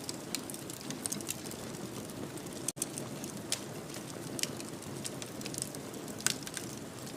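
Wood fire crackling in a fireplace: a steady low hiss with frequent sharp pops and snaps, one of the louder pops a little after six seconds in. A split-second gap of silence cuts in just under three seconds in.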